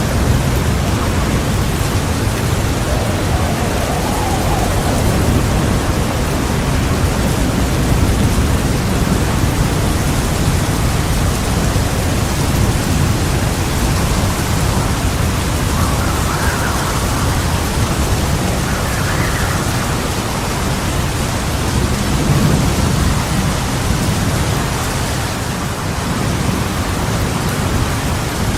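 Heavy, steady rain with thunder rumbling low and continuously underneath, swelling a little a few times, with no sharp cracks.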